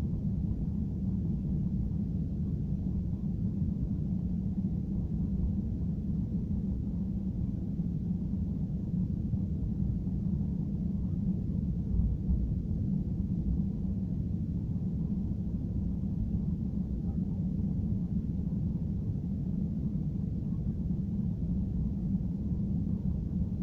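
Steady low rumble of an airliner cabin with the jet engines running at low power before takeoff.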